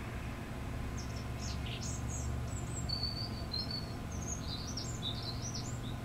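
Small birds chirping and twittering in a run of short, high calls with a few brief whistled notes, starting about a second in, over a steady low hum.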